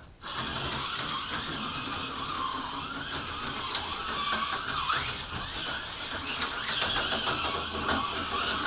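HO-scale slot car running on the track: a steady small electric motor whine with a scatter of small clicks from the car on the rails, starting suddenly right at the start.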